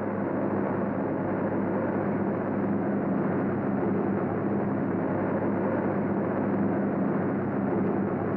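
Steady, unbroken drone of aircraft engines.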